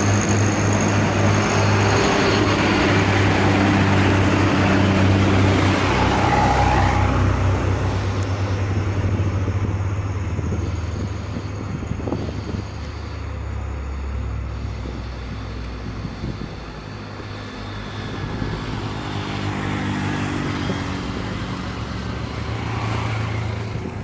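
Heavily loaded truck's diesel engine labouring up a steep climb. It is loudest in the first several seconds, dies down in the middle and grows louder again near the end.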